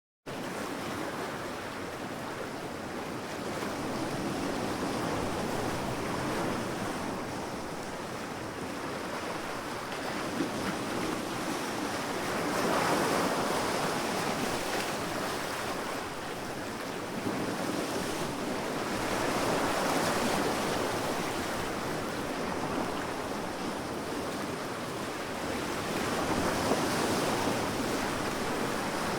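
Ocean surf: waves breaking and washing up on a beach in a steady rush, swelling and easing about every seven seconds. The sound cuts in suddenly at the start after silence.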